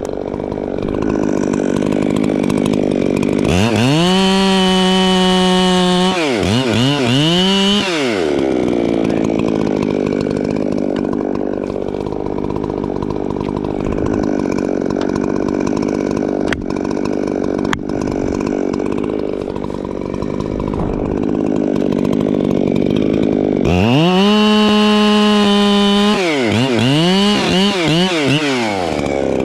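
Echo two-stroke chainsaw running, opened to full throttle twice for a couple of seconds, each time followed by the engine speed swinging up and down before it drops back to idle.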